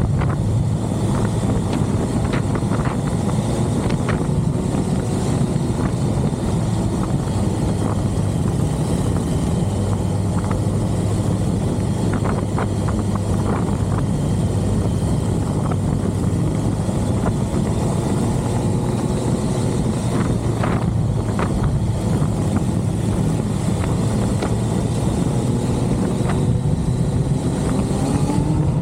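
Motorcycle on the move at road speed: a steady engine hum under heavy wind rush, with a few brief knocks, and the engine note rising near the end.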